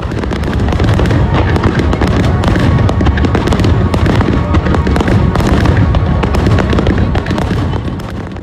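Dense barrage of aerial fireworks going off, a rapid stream of sharp bangs and crackles over a continuous low rumble, easing off near the end.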